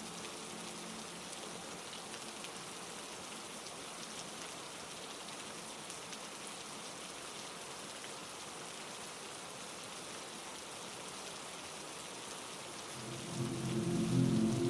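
Steady heavy rain, an even hiss of dense drops. Near the end a louder low drone of held tones swells in under it.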